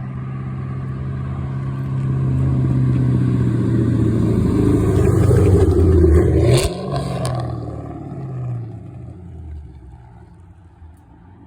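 Straight-piped Ford Mustang GT 4.6-litre 2-valve V8 exhaust (stock manifolds, H-pipe, muffler delete) running as the car drives by, growing louder to a peak about two-thirds of the way through, then dropping off suddenly and fading away.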